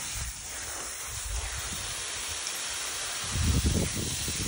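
Steady windy hiss outdoors under an approaching thunderstorm, with a low rumble swelling a little over three seconds in and fading within about a second.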